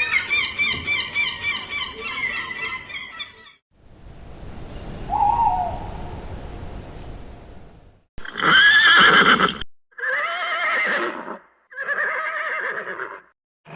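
A run of recorded animal calls from different animals. It opens with a dense stretch of wavering, chirping calls, then comes a hissy pause with one short call. It ends with three loud, drawn-out calls that rise and fall in pitch, each lasting over a second.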